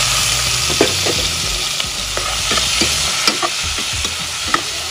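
Raw shrimp dropped into hot coconut oil with sautéed onion, tomato and garlic, setting off loud sizzling frying that jumps up as they go in, with scattered pops and spatters.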